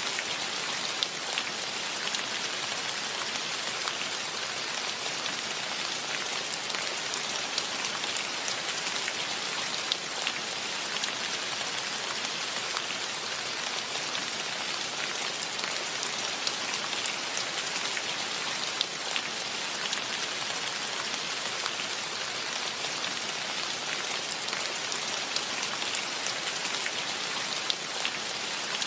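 Steady, even rain, with many sharp hits of single drops standing out from the wash.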